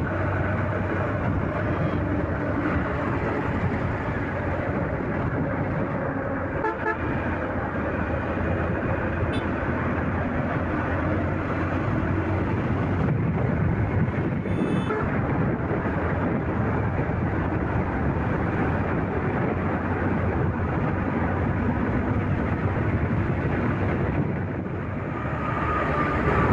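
Motorcycle running at road speed in traffic, with steady engine and road noise. Vehicle horns toot briefly about seven seconds in and again around fourteen seconds.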